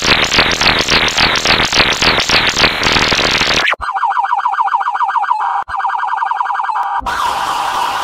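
Police car siren sound effect in edited versions: first a harsh, distorted Game Boy–style rendering with about four quick sweeps a second, then about four seconds in a cleaner sped-up version with fast yelping sweeps, which gives way about seven seconds in to a noisy, steadier tone.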